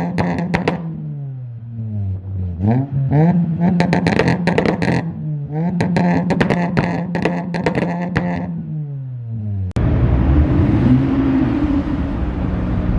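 Car engine revved hard and held against the rev limiter, stuttering rapidly, with the revs dropping away and climbing back. About ten seconds in it changes suddenly to a louder, steady rush of noise with an engine running underneath.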